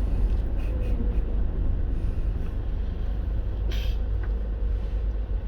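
Steady low rumble of a moving vehicle heard from inside its cabin, with a brief hiss about four seconds in.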